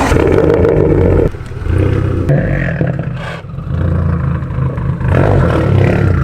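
SRT car's engine running with a deep rumble, its loudness dropping and swelling again a few times as the revs change.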